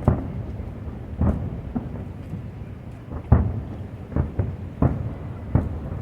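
Aerial fireworks shells bursting in a steady series, about one boom a second, each with a low rolling echo over a continuous rumble. The loudest burst comes a little over three seconds in.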